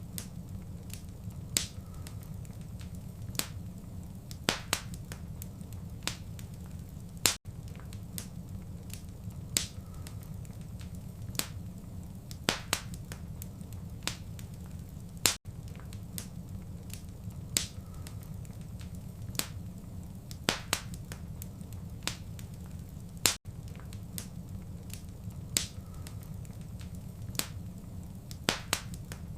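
Wood fire crackling in a fireplace: frequent sharp pops and snaps over a low, steady rumble, with a brief dropout about every eight seconds.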